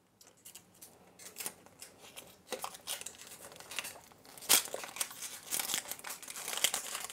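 Wrapping on a toy surprise egg crinkling and tearing as it is unwrapped by hand, with a sharp snap about four and a half seconds in.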